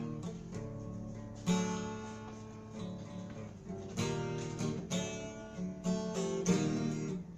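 Instrumental music on a plucked string instrument, strummed and picked, with a new chord or note struck every second or so and no singing.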